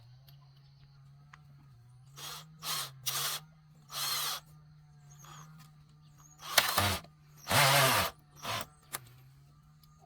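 A tool working bamboo in short rasping bursts, about nine in all, the longest and loudest two-thirds of the way through, over a faint steady low hum.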